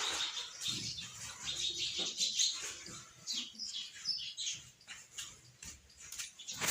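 Birds chirping, a run of short, irregular high calls.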